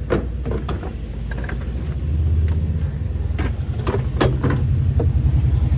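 A low, steady engine rumble, like a motor vehicle running close by, getting louder about two seconds in. Scattered short clicks and knocks sound over it.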